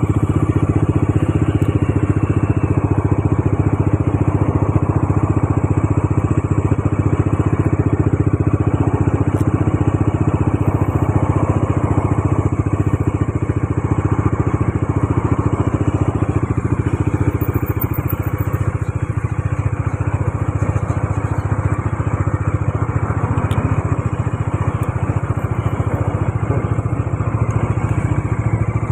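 Bajaj Dominar 400's single-cylinder engine running at a steady speed, with no revving.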